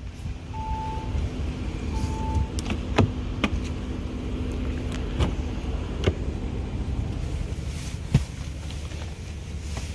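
Two short electronic chime beeps from the Audi SQ7 early on, then scattered clicks and knocks of doors and handling in the car, over a low steady hum.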